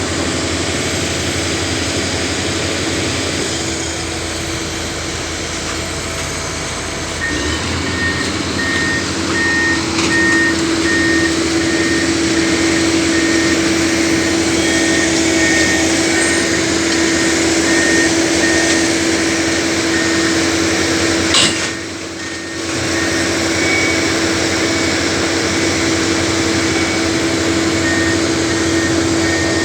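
Heavy machinery diesel engine running steadily under load, with a regular high-pitched warning alarm beeping from about a quarter of the way in, typical of an excavator's travel alarm as it moves. One sharp click comes about two-thirds in.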